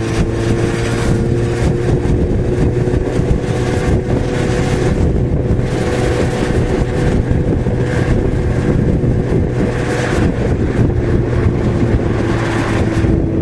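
Yamaha XJ6's 600 cc inline-four engine running at a steady cruising speed under wind noise on the helmet mic, its pitch easing slightly lower near the end.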